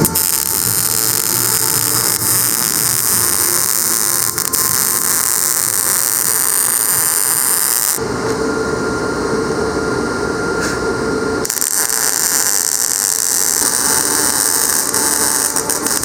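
MIG welder laying beads on a steel rail: a steady, loud sizzling crackle, in three runs that change about 8 seconds and 11.5 seconds in, as the arc stops and starts again.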